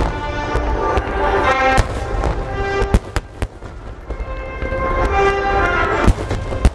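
Aerial fireworks shells bursting with several sharp bangs, the loudest near the end, over music playing throughout.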